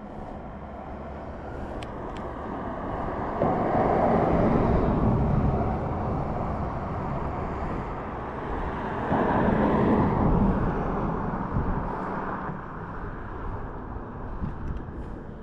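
Road traffic passing, a steady rushing noise that swells twice as vehicles go by, about three seconds in and again about nine seconds in.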